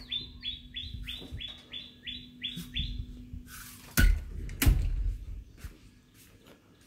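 A bird calling a quick series of about nine short chirps over the first three seconds. About four seconds in, a doorknob latch clicks sharply twice as a door is opened.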